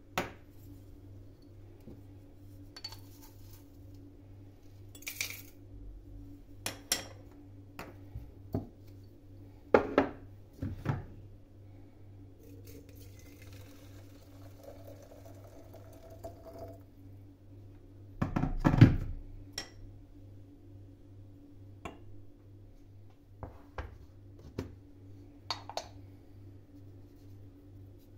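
Dishes and kitchenware being handled and set down: scattered clinks and knocks, with the loudest clatter a little after halfway. A steady low hum runs underneath.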